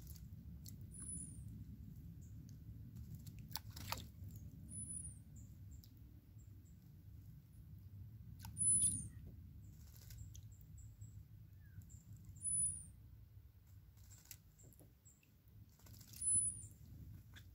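A high, thin bird call repeated about every four seconds over a low rumble, with a few small ticks and splashes from a sparrow drinking and bathing in a shallow puddle.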